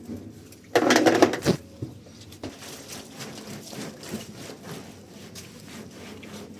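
Hands working on a washing machine's transmission area: a loud scraping rattle about a second in, then scattered small clicks and scrapes of parts and tools being handled.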